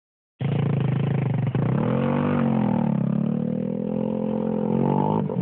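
Motorcycle engine running, its pitch dropping and rising again as the throttle is worked, then holding steady.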